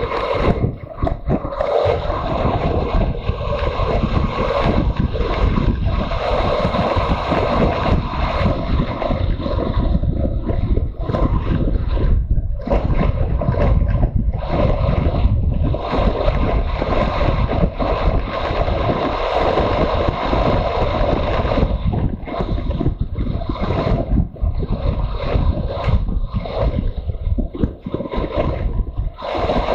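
Riding motorcycle heard from onboard: steady wind rush over the microphone with the engine running underneath, dipping briefly now and then.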